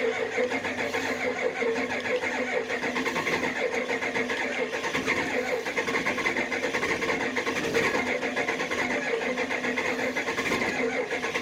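A starter cranking a cold IDI diesel engine steadily on and on; the engine turns over without catching.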